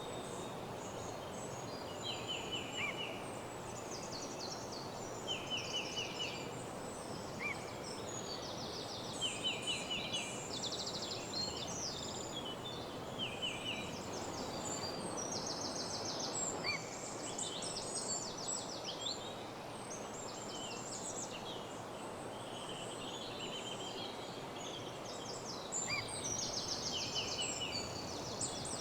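Woodland birds singing: many short, rapid trills and chirps from several birds, coming every second or two, over a steady background rush.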